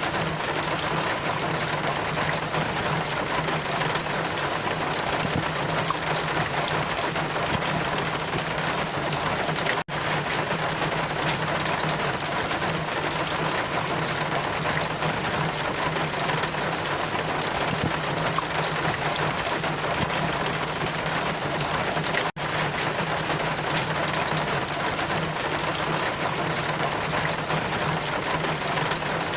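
Steady rain falling, an even hiss, cutting out for an instant twice: once about ten seconds in and again a little past twenty seconds.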